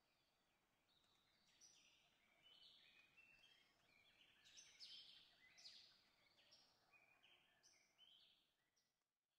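Faint birdsong: a string of short, high chirping calls over a light hiss, fading out near the end.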